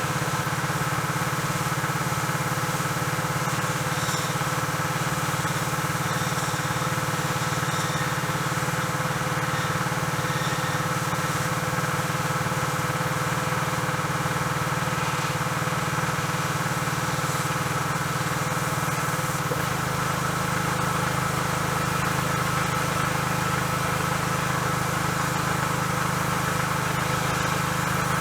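Small Honda lawnmower engine running steadily at idle, brought back to life after being flooded and seized. Its low note shifts slightly about twenty seconds in.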